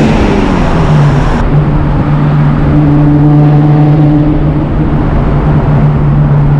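1995 Ford Probe's 2.5-litre KL-DE V6 exhaust, loud. The revs drop over the first second or so, then settle into a steady drone as the car cruises.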